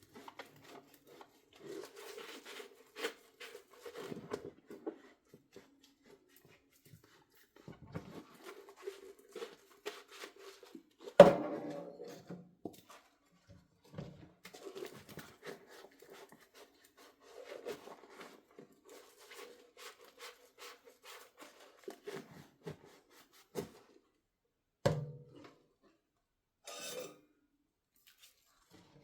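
Dishes being washed by hand in a sink: scrubbing and handling with scattered light clinks and scrapes, and one loud clunk about eleven seconds in.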